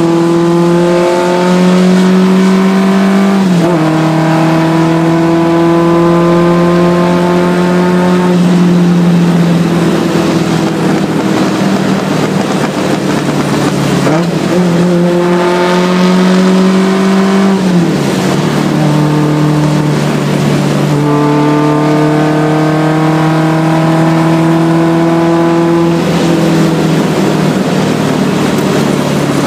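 Triumph Spitfire rally car's four-cylinder engine heard from inside the car under hard acceleration. The pitch climbs steadily and then drops sharply at each upshift, several times.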